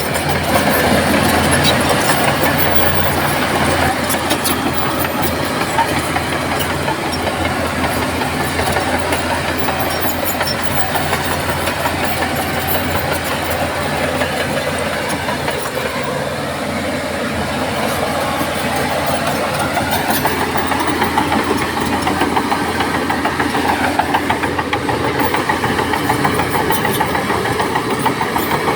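Diesel engine of heavy earthmoving machinery running continuously. It eases off a little past the middle, then works harder again.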